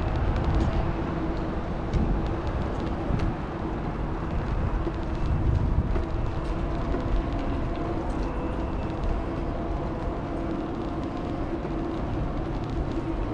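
Electric bike in motion: a steady low rumble of wheels and air, with a faint steady hum and scattered light rattling ticks.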